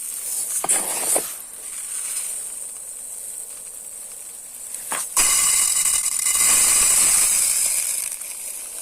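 Dry rice grains being scooped and poured, a grainy hiss of falling rice. A short rush about a second in, then a louder, longer pour from about five seconds in that tails off near the end.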